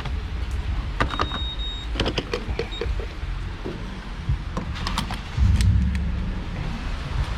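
Gas pump being set up: scattered clicks and knocks with a short high electronic beep about a second in, over a steady low rumble, with a louder low surge about five and a half seconds in.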